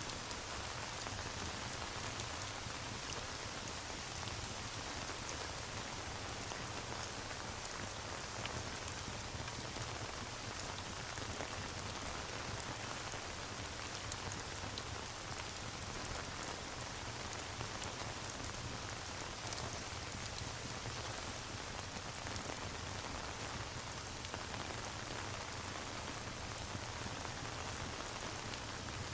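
Steady rain, an even hiss with scattered light taps of drops.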